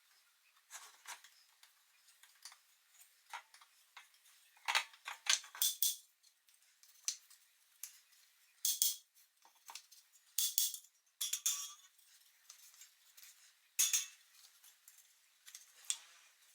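Light clinks and rattles of small hard objects being handled, coming in irregular bursts a few seconds apart.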